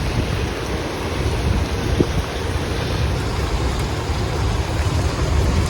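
Storm wind and heavy rain blowing hard, with wind rumbling on the microphone and rain hissing steadily.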